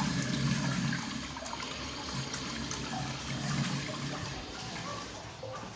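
A 1999 American Standard Washbrook urinal flushing: water rushes through the bowl and slowly tapers off.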